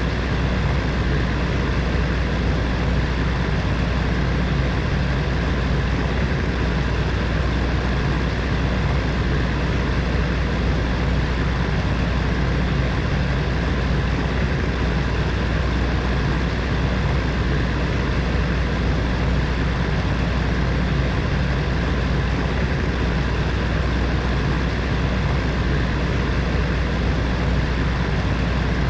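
Electric heater fan running steadily: an even whooshing airflow over a low, constant hum.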